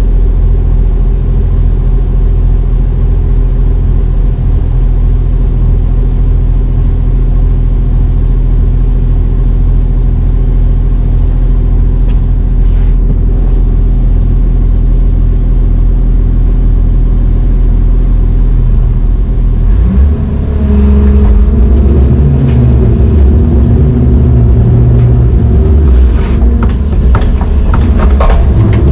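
Heavy diesel engine running at a steady idle. About twenty seconds in it revs up and works harder, its pitch rising and falling, with several knocks and clanks near the end.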